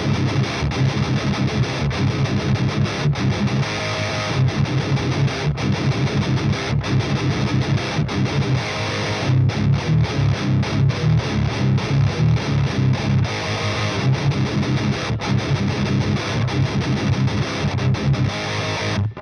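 Epiphone Widow Les Paul Custom electric guitar played with distortion: a fast rhythmic riff on the low strings, with short stops between notes.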